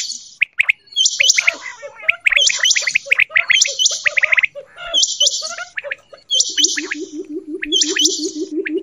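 Quail calls: a sharp, high chirping call repeats about once a second, mixed with quicker chirps. About two-thirds of the way in, a low, rapid pulsing call joins them.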